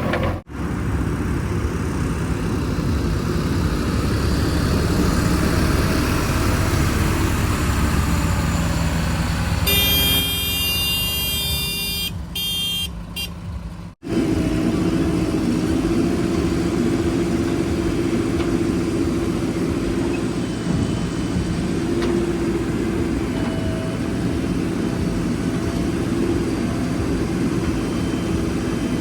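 Diesel engines of a backhoe loader and tractors running steadily, cut off abruptly twice. Partway through, a high steady tone with many overtones sounds for about four seconds, breaking twice before it stops.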